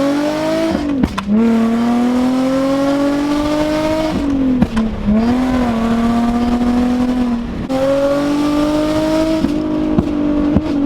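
Infiniti G35's V6 running hard through a Tomei Expreme Ti titanium Y-back exhaust, the pitch rising under acceleration and dropping back at each upshift, three times. Sharp pops and cracks from the pop-and-flame tune come at the shifts and several times near the end.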